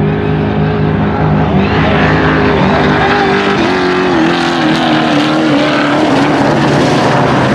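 Trophy truck's racing engine running at high revs, growing louder and harsher about two seconds in, then its pitch dropping in steps as it goes by.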